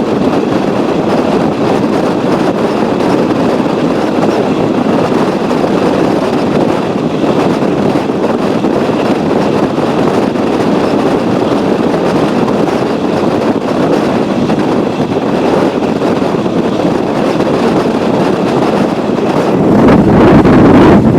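Steady running noise of a passenger train heard from on board, a loud even rush of wheels on rail and air. It grows louder, with a deeper rumble, near the end.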